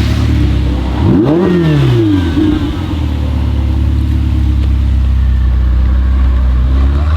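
A sports car engine revved once about a second in, its pitch sweeping up and falling back within about a second, over a steady low engine rumble. Another rev begins near the end.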